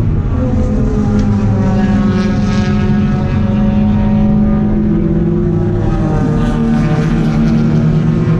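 Race car engine running hard at high revs, its pitch drifting slowly, with a small drop about six seconds in.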